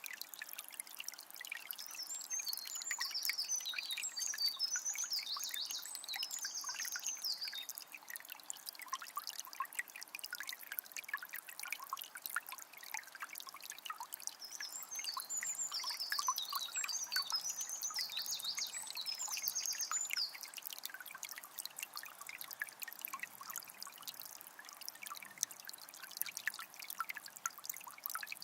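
A small spring's water trickling and pouring steadily. A songbird sings twice over it, a few seconds of quick high notes each time, and starts again at the very end.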